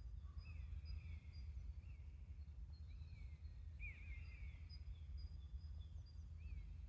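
Faint bird calls, short chirps and thin whistled notes repeating every second or so, over a steady low rumble of outdoor background noise.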